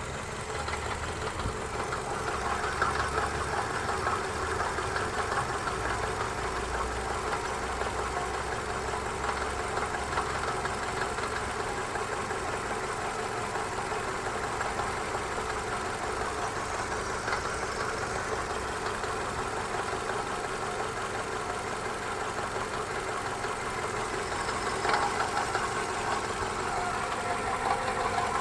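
Toyota Camry XV50's 2.5-litre 2AR-FE four-cylinder engine running steadily with a knock, which the title puts down to the balance shafts.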